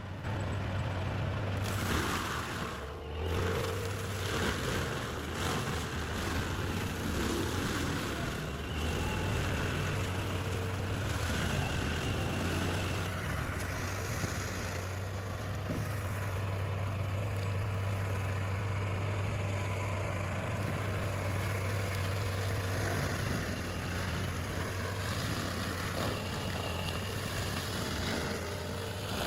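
Stump grinder's engine running steadily with a low drone under a noisy grinding haze, dipping briefly about three seconds in.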